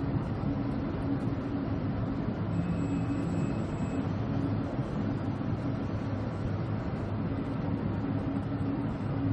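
Steady drone of a ship's engines and machinery heard on board, with a constant low hum under an even rushing noise.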